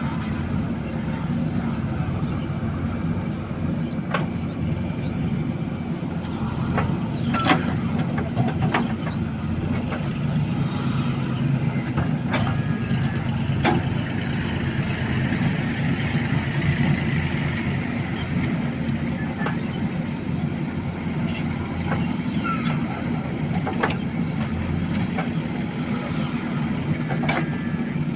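Heavy diesel engine running steadily at work, with about a dozen sharp knocks or clanks scattered through it.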